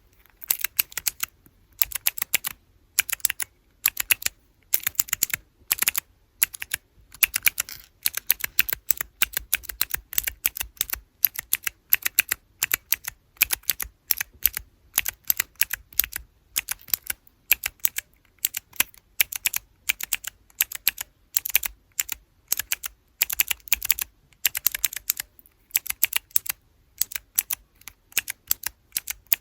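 Clicky blue mechanical key switches on small keychain keyboard-block toys, pressed over and over in quick runs of sharp clicks with short pauses between them.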